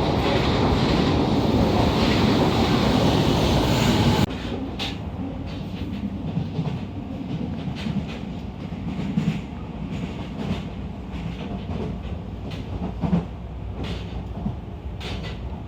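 Train running on rails: a loud, dense rumble and rush for the first four seconds, then an abrupt change to a quieter ride with scattered clicks and knocks from the wheels and car.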